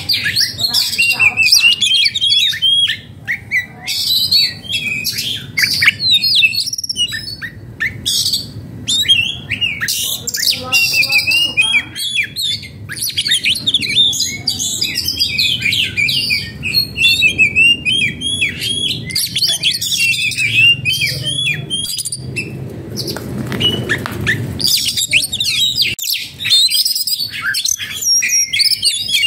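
Oriental magpie-robin singing a rapid, unbroken run of varied chirps and whistles. A short rushing noise rises under the song about three-quarters of the way through.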